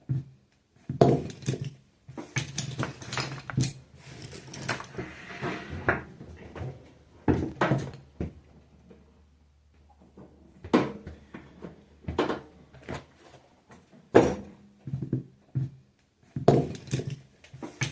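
Irregular knocks, clicks and light rattles of hands handling the parts of an opened-up microwave oven, with a faint steady low hum during a quieter stretch in the middle.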